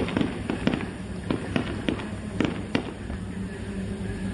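Fireworks display: aerial shells bursting in an irregular string of sharp bangs and crackles, about a dozen in four seconds.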